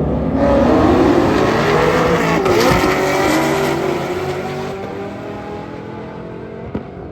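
Loud Chevrolet race cars, a Camaro and a Corvette, at full throttle in a roll race, flying by. The engine note climbs in pitch, drops sharply as they pass about two and a half seconds in, then fades away.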